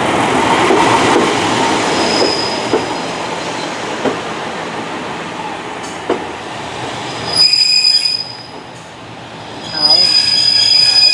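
Class 143 Pacer diesel railbus running slowly into a platform: a rumbling noise with a few sharp clicks from the wheels, then a loud high-pitched wheel squeal that starts suddenly about seven seconds in, breaks off briefly and comes back near the end.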